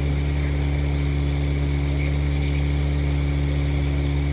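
Motorboat engine running steadily, a constant low hum with no change in speed.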